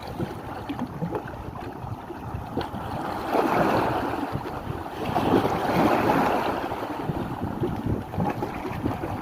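Wind buffeting the microphone over sea waves washing, with two louder surges of noise near the middle.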